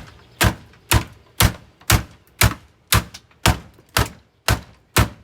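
Repeated heavy blows striking a Hoover vacuum cleaner in a steady rhythm, about two a second, some eleven strikes. The machine is holding up under them, and the man smashing it doesn't think it's going to break.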